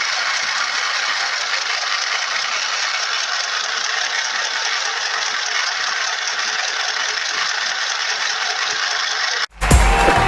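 Mini portable electric sewing machine running steadily with a rattle. Near the end it cuts off suddenly and music starts.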